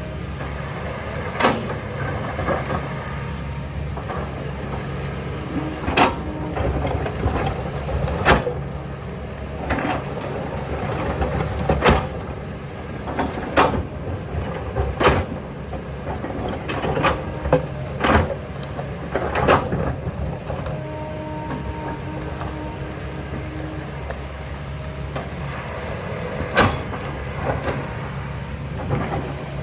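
Diesel engine of an earthmoving machine running steadily, with sharp clanks and knocks every second or two from the bucket working rock and soil.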